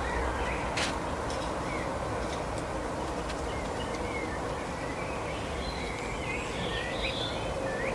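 Small birds chirping in short, scattered calls that glide up and down, over a steady outdoor background noise.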